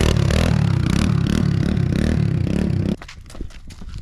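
A 110cc single-cylinder four-stroke dirt bike engine running, its speed wavering up and down, cutting off abruptly about three seconds in. A few sharp clicks follow.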